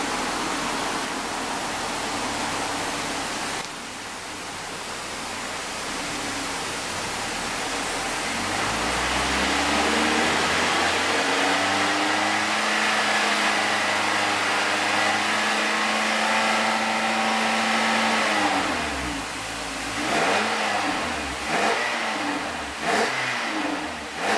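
Nissan E52 Elgrand's exhaust through a custom flat-type quiet rear silencer with dual tailpipes. It idles, then revs up about eight seconds in and holds steadily for around eight seconds before falling back. Several quick throttle blips follow near the end.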